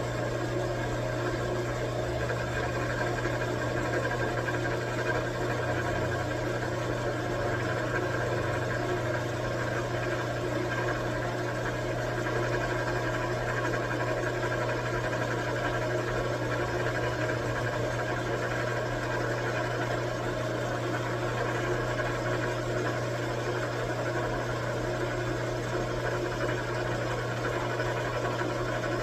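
Metal lathe running steadily while turning down a metal bar: a constant motor hum with machining noise, even throughout.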